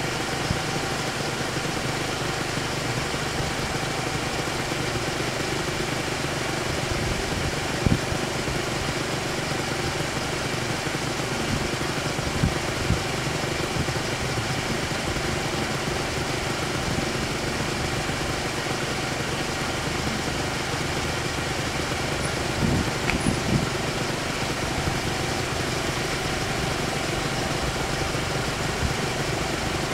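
Road vehicle engines idling steadily while stopped in traffic, with a few faint knocks about eight seconds in and again around twenty-three seconds.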